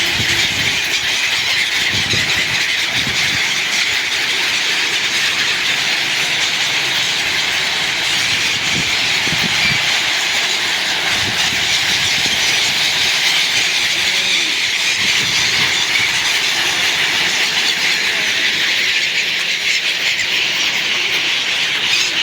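A large flock of birds calling all at once, a dense, continuous high-pitched chatter that holds steady throughout.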